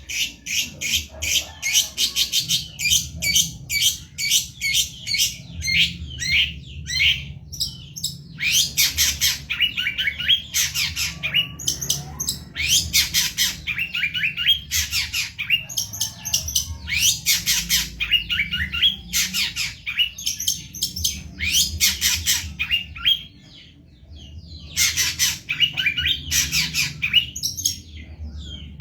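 Long-tailed shrike (cendet) singing vigorously: fast runs of harsh, scratchy high notes in bursts of a second or two, with a brief pause a little over 20 seconds in.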